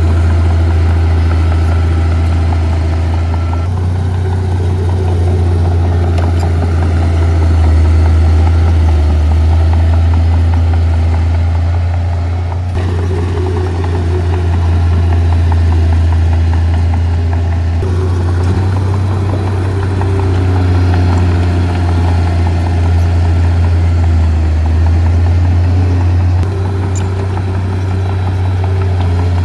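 Heavy diesel engine of earth-moving machinery running steadily, a deep steady hum with rattle over it. The sound shifts abruptly a few times.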